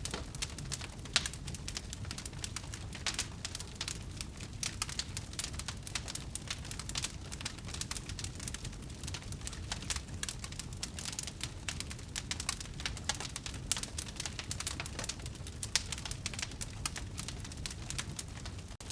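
Wood fire burning in a fireplace, crackling with a dense, irregular run of small sharp pops over a low steady rumble of the flames.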